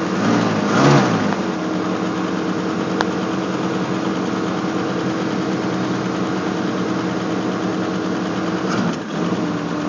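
1965 AMC Rambler inline-six engine idling steadily on its cold fast idle shortly after a cold start, with a brief swell about a second in and a short dip near the end.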